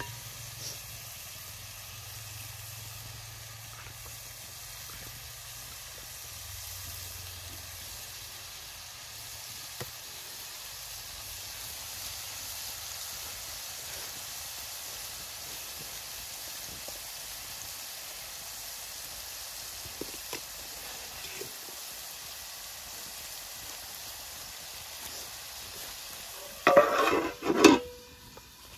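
Marinated prawns frying in a couple of spoons of sunflower oil, a steady sizzle with a few light taps of stirring. Near the end two brief loud noises stand out, and the sizzle is quieter after them.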